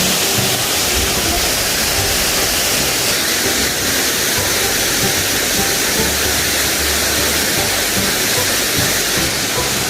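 Waterfall pouring into a pool, a loud steady rush of water, with uneven low wind rumble on the microphone.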